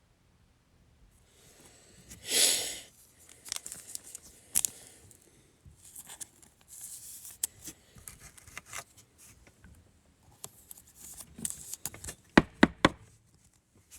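Trading cards and their plastic packaging being handled: rustling, sliding and crinkling, with a louder tearing rasp about two seconds in. A few sharp knocks on the table come near the end.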